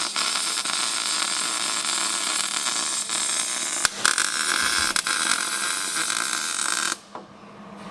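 Welder tack-welding an exhaust pipe: a steady crackling hiss, with a short break about four seconds in, cutting off abruptly about a second before the end.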